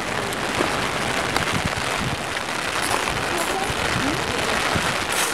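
Heavy rain falling steadily, with a few sharper taps of drops landing close by.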